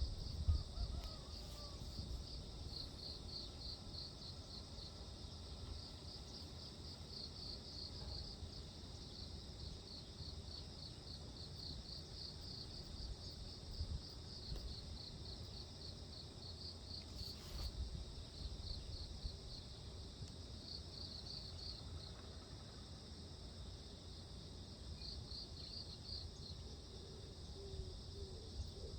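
Insects, likely crickets, chirping in repeated trains of short high pulses with brief gaps, over a faint low rumble.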